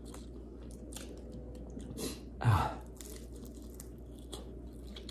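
Close-up chewing and crunching on a fried egg roll, with small crackling clicks throughout and one louder sound about halfway through.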